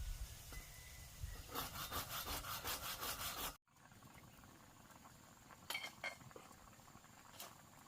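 A quick run of rhythmic scraping or rubbing strokes, about six a second, that cuts off abruptly, followed by a few sharp clicks.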